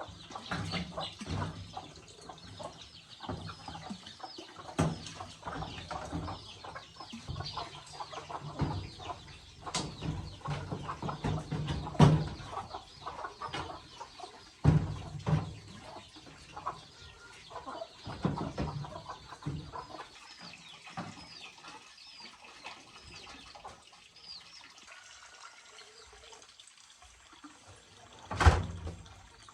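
Chickens clucking, with scattered knocks and clatter throughout and one loud knock near the end.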